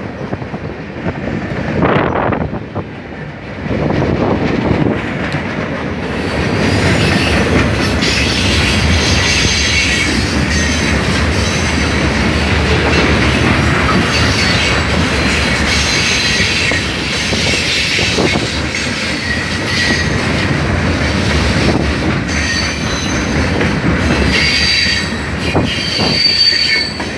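Norfolk Southern train's cars rolling past close by, a steady rumble and clatter of wheels on rail with high thin wheel squeals that come and go. The sound grows fuller about six seconds in.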